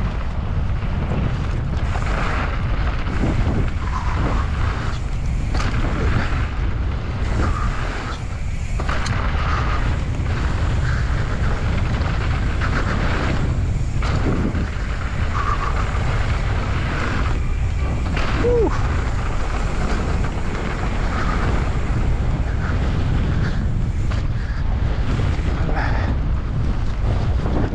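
Wind rumbling on an action camera's microphone as a mountain bike rides down a dirt trail, with scattered knocks and rattles from the bike and tyres over the ground.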